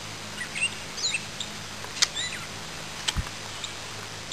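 Birds chirping: a few short calls that slide quickly up or down in pitch, with a soft low thump about three seconds in.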